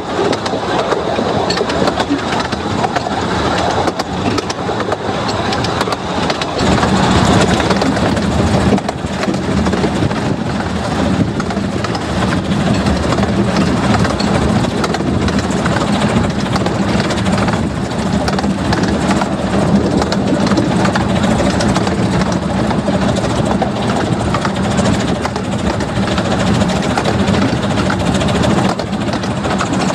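A 15-inch-gauge miniature steam train running along the line, heard from an open passenger carriage: a steady rumble and rattle of wheels on rails, with a low hum that strengthens about six seconds in.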